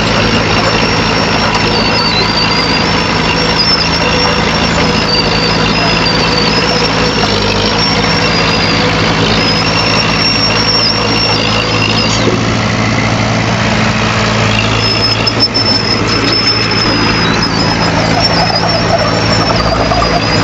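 Heavy diesel earthmoving machine running steadily, with a high, wavering squeal that comes and goes over the engine.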